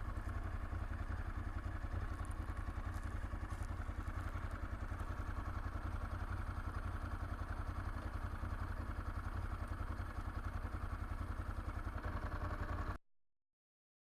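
Motorcycle engine idling steadily, an even low pulsing heard through a helmet camera, until the sound cuts off suddenly near the end.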